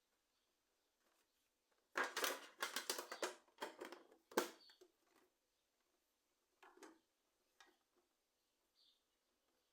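Handling noise: a quick cluster of rustles and clicks about two seconds in, then a few faint taps.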